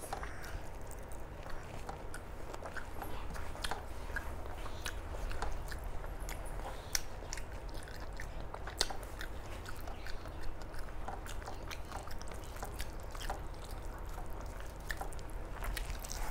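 A person chewing a meal of rice with dal and fish curry, with many small wet mouth clicks and smacks at irregular intervals.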